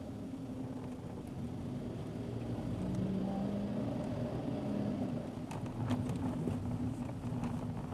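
Car engine and tyre noise picked up by a dashboard recorder inside the car while driving a narrow mountain road. The engine note strengthens about three seconds in, and a few light clicks or knocks come through in the second half.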